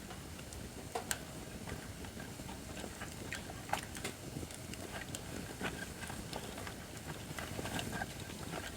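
Acacia firewood burning in a fire pit, crackling with irregular pops and snaps over a low rumble of the flames. The sharpest pops come about a second in and just under four seconds in.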